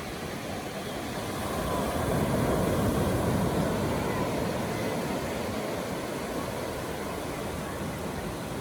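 Ocean surf washing on the beach, swelling about two seconds in and then settling into a steady wash.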